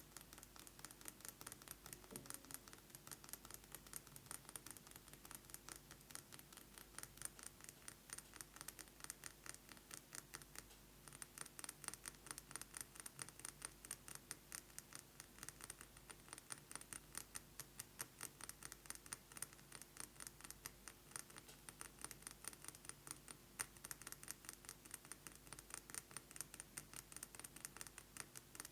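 Fast fingernail tapping on a perfume bottle: a quick, continuous run of light clicking taps, with a brief pause about eleven seconds in.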